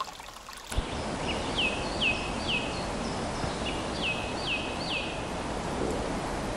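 A small brook trickles over stones for a moment. Then a steady rushing noise, like wind through forest trees, sets in suddenly, and a songbird sings two short phrases of three or four quick, high whistled notes, each sliding downward.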